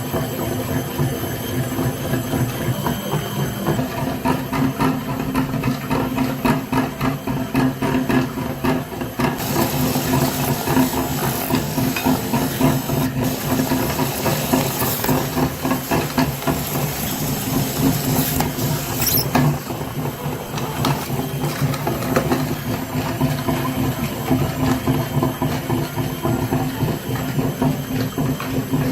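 A small motor running steadily with a constant hum, joined by a hissing noise for several seconds in the middle.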